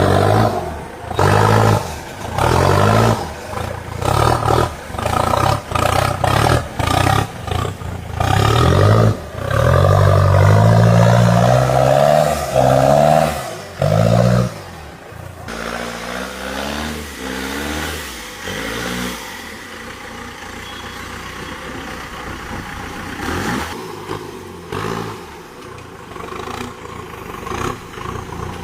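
Off-road 4x4's engine revved in repeated short bursts, rising in pitch each time, with one longer hard rev about ten seconds in. It then drops to quieter running with a few smaller blips of throttle.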